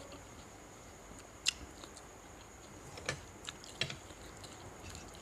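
Eating sounds from a meal of shrimp: a few sharp crunching clicks, the loudest about a second and a half in and several more near three to four seconds in, over a faint steady high tone.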